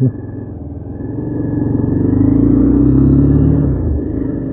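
Motorcycle engine running under way, with the revs rising from about a second in and easing off near the end.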